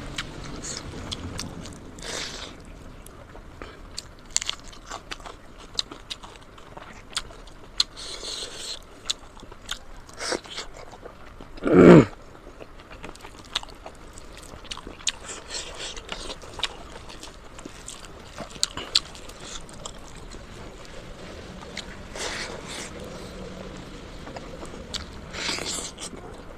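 Close-up mouth sounds of eating pork leg and pork nose: biting and chewing, with many sharp crunches and clicks. About halfway through there is one brief, much louder sound.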